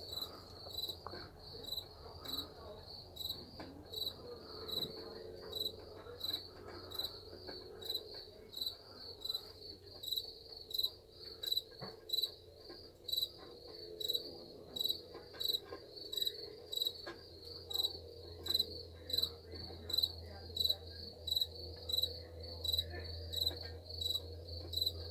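A cricket chirping in a steady, even rhythm, about two chirps a second.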